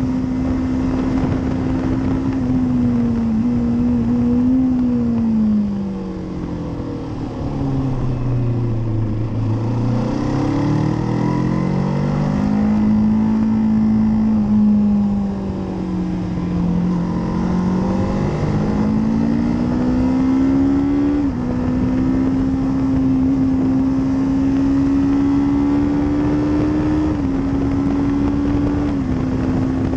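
Kawasaki Z650 parallel-twin engine heard from on the bike. The revs fall for several seconds as the bike slows, then climb again under acceleration, with two upshifts that each bring a sudden small drop in pitch.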